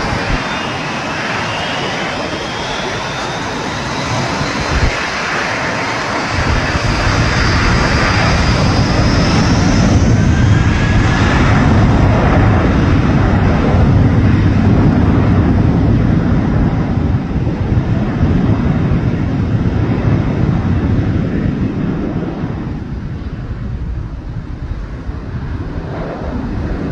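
Jet airliner passing close overhead: a high engine whine in the first seconds, then the low engine noise builds to a peak about halfway through and fades away over the last few seconds.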